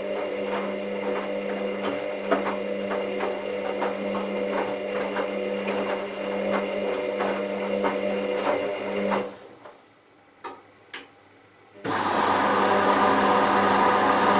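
Hoover VisionTech washing machine running: a steady motor hum with soft knocks about twice a second. It cuts out about nine seconds in, leaving two faint clicks. Then, about twelve seconds in, a louder steady whir starts abruptly.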